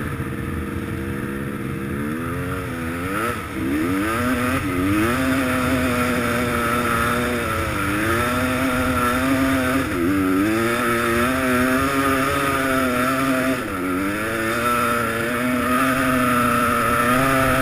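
Dirt bike engine revving hard, its pitch dipping and climbing again several times and held high in between.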